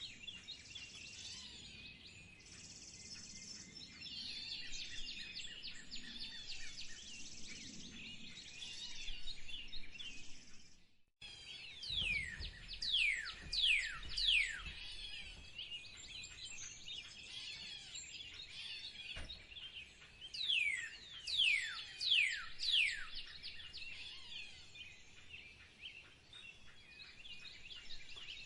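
A chorus of small birds chirping and singing. A short break comes about 11 s in. After it, one bird gives two runs of loud whistled notes, each note sliding steeply downward.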